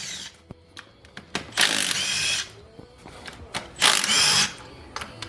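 A handheld power tool runs in two short bursts of just under a second each, with a rising whine, and a few sharp clicks between them.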